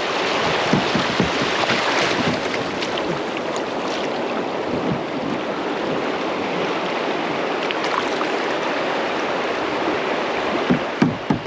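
Creek whitewater rushing around a kayak running the rapids: a steady, loud wash of water, with a few sharp hits near the end.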